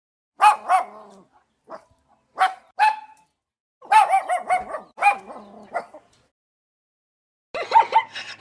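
A dog barking in short, high-pitched yaps, in several separate bursts with gaps between them, then a fresh run of yaps near the end.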